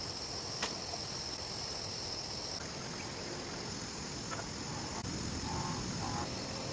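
A steady, high-pitched insect chorus over a constant hiss, with one faint click about half a second in.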